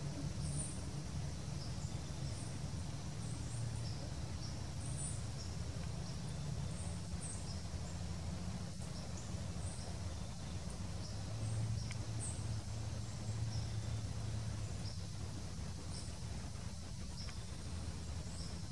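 Faint, short, high bird chip notes scattered irregularly over a steady low background rumble.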